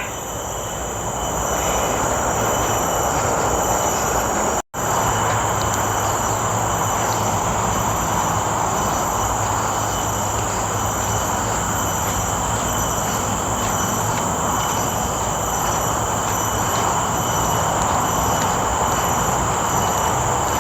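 Steady roar of road traffic, with insects droning in several high, steady tones above it. The sound cuts out for an instant about five seconds in.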